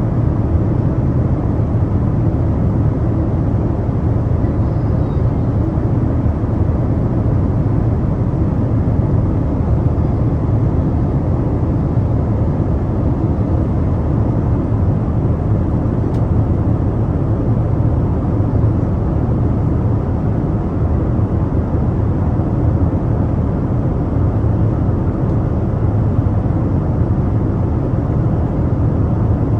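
Steady cabin noise of an airliner in flight: the low, even rush of engines and airflow heard from a window seat.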